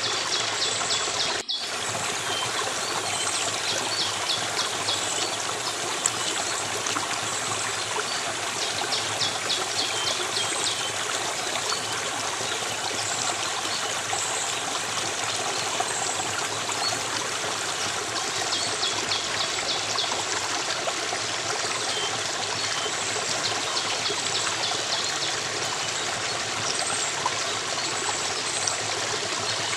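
Stream of water flowing steadily, with recurring bursts of rapid bird trills and short high chirps over it. The sound cuts out for an instant about a second and a half in.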